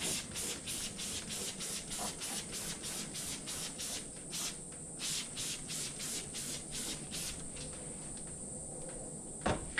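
Trigger spray bottle of all-purpose cleaner being pumped rapidly, short hissing squirts about three a second for roughly seven seconds, then a few more spaced out. A single sharp knock comes near the end.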